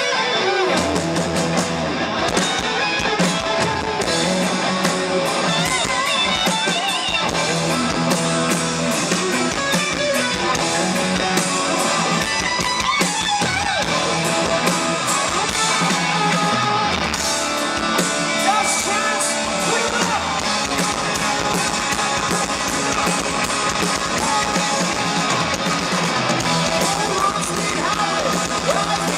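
Hard rock band playing live through a PA: electric guitars and bass over drums, with a singer.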